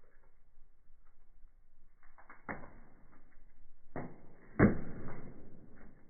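Wood fire in a fireplace crackling: faint scattered crackle with a few sharp pops, the loudest a little past halfway.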